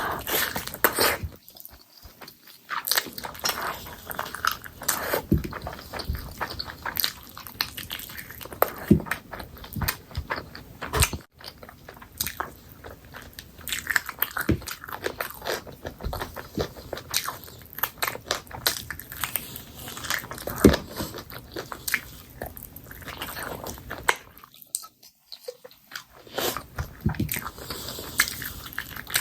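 Close-miked sounds of a person eating chicken curry: steady chewing, biting and wet mouth sounds in an irregular run of sharp clicks and smacks, with a short pause a few seconds before the end.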